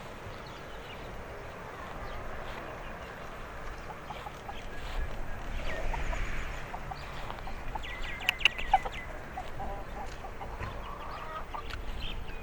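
Birds calling with short, clucking calls, starting about five seconds in and recurring to the end, over a steady outdoor hush. Three sharp clicks come close together about eight and a half seconds in.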